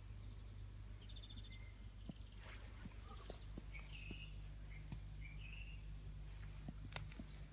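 Faint birds chirping: a short trill about a second in, then several brief chirps. Underneath are a steady low hum and a few faint clicks, the sharpest near the end.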